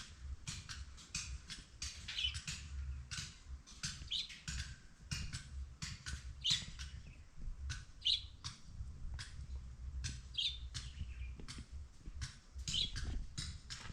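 A bird chirping, short high calls repeating about every two seconds, over scattered clicks and a low rumble.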